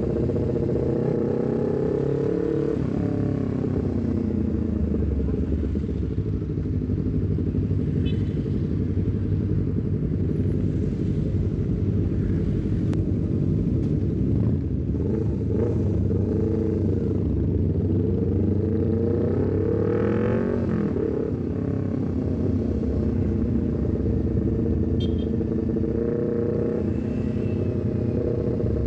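Honda CBR250RR engine through a Leovince GP Corsa aftermarket silencer on the move, its pitch rising and falling repeatedly as it accelerates and eases off, with a long climb in the middle that drops away about two-thirds of the way through.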